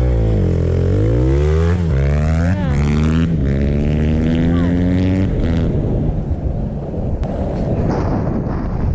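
Dirt bike engine accelerating, its pitch climbing and dropping back several times as it shifts up. After about five and a half seconds it gives way to wind noise on the microphone.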